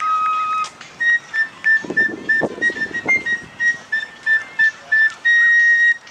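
A high whistle sounding a long note, then a quick string of short notes on nearly the same pitch, ending on a longer held note.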